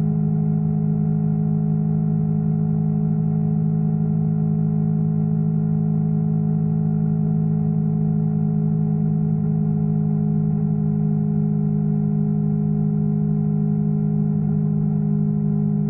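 Yamaha R3's parallel-twin engine running at steady revs, a constant pitched drone that does not rise or fall.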